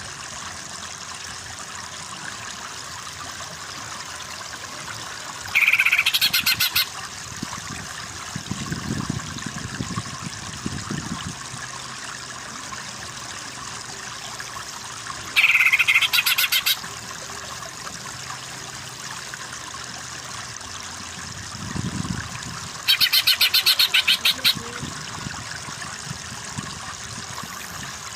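Cucak ijo (greater green leafbird) giving three loud bursts of fast, rapidly repeated high notes, each about a second or so long and roughly eight to ten seconds apart, over a steady sound of running water.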